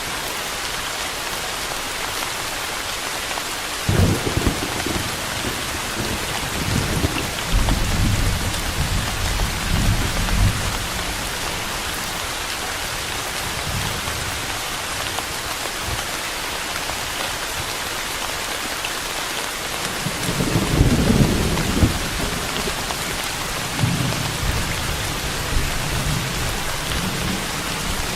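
Steady rain hiss, with two long low rolls of thunder: one starting about four seconds in and lasting several seconds, a second beginning near twenty seconds in.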